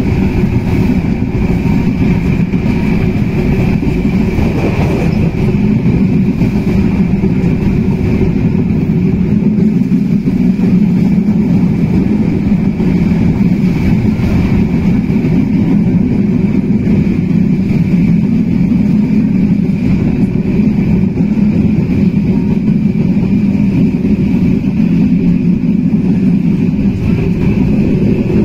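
Passenger train running steadily at speed, heard from inside the carriage by an open window: a constant low rumble of wheels and track with a faint steady whine above it.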